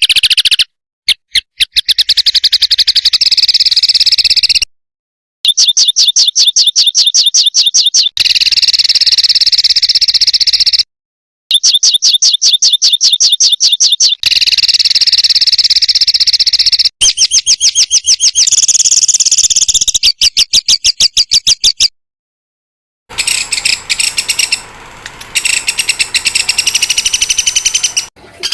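Recorded songbird song: fast trills of sharply repeated high notes in blocks a few seconds long, broken by sudden dead-silent gaps where clips are spliced together. Near the end it changes to a denser, more varied chatter.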